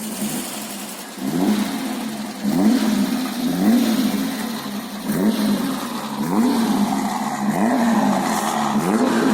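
Ford Taunus V6 exhaust, with two mufflers fitted, idling briefly and then revved in short throttle blips about once a second, each a quick rise and fall in pitch. The uploader says it roars.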